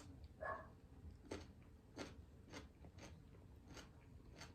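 Crisp crunching of a person chewing radish close to the microphone: short, sharp crunches, about one every two-thirds of a second.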